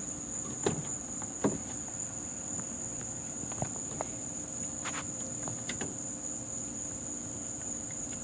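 Crickets trilling steadily and high-pitched, with a few sharp clicks and knocks from hand work on the spark plug wires, the loudest about a second in and again at a second and a half.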